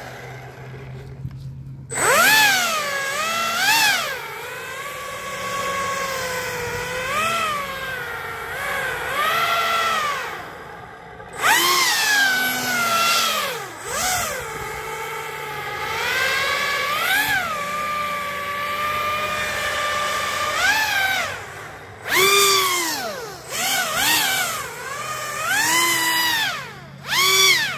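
Pro Boat Aerotrooper RC airboat's electric motor and air propeller, run on a 4S battery, whining and revving up and down again and again with the throttle. The whine starts about two seconds in and drops away briefly a few times.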